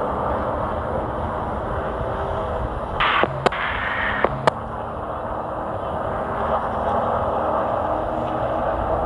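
Race truck engine running hard at racing speed, a steady loud drone, with two sharp clicks about a second apart near the middle.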